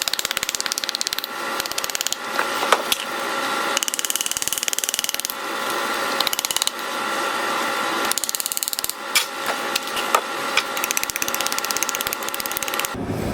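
Rapid, even mechanical tapping from hand work on a homemade engine gasket, with a few sharper knocks.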